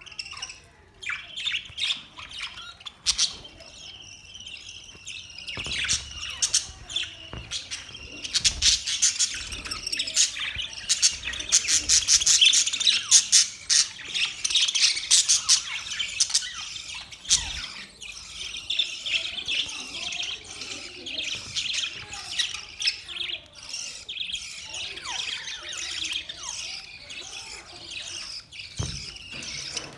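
A flock of budgerigars chirping together: a dense, continuous stream of rapid high chirps, thickest around the middle.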